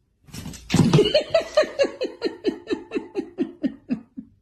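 Hearty laughter: a rapid run of short 'ha' pulses, about five a second, each dropping in pitch, that fades off near the end.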